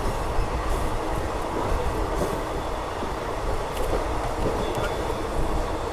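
Steady running noise of a moving express passenger train: an even low rumble of wheels on the track, with faint scattered clicks.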